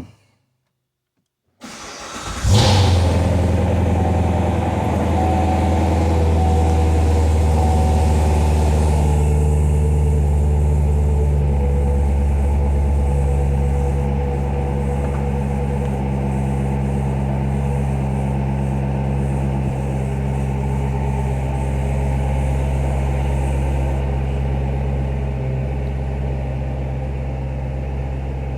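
2017 Chevrolet Corvette Grand Sport's 6.2-litre LT1 V8 starting about two seconds in with a quick rev flare, then idling steadily, easing slightly lower over the following seconds.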